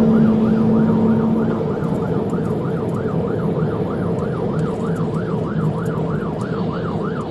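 Police car siren on a fast yelp: a rapid rising-and-falling wail repeating nearly four times a second, sounding during a high-speed pursuit.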